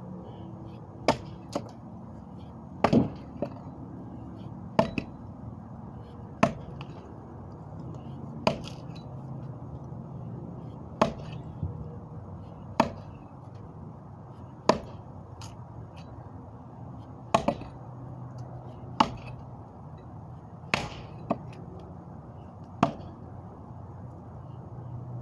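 Sharp single knocks or chops, repeated at uneven intervals of about one to two and a half seconds, sometimes in quick pairs, over a steady low rushing noise.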